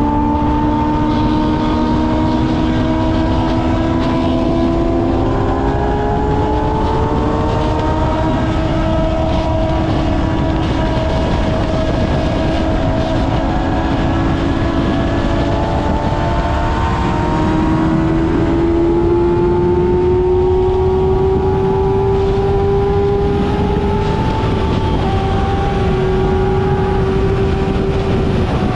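Kawasaki ZX-6R's 636 cc inline-four engine running under way, its note slowly rising and falling with the throttle and stepping in pitch a few times as the gears change, over steady wind rush.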